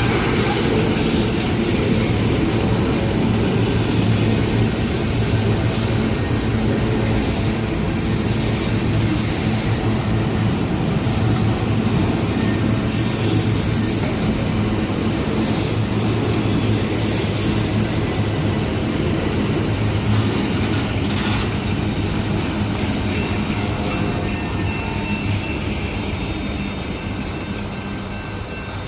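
Freight train of boxcars rolling past: a steady rumble of wheels on rail with clickety-clack and a high metallic hiss from the wheels. It fades slowly over the last few seconds.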